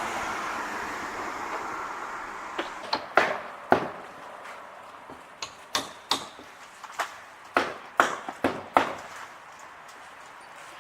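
A passing vehicle fading away over the first few seconds, then a run of about fifteen sharp, irregular clicks and knocks.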